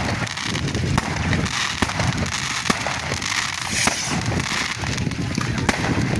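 Fireworks going off: many quick crackling pops scattered through, with a hissing fizz rising in the middle, over a low rumble.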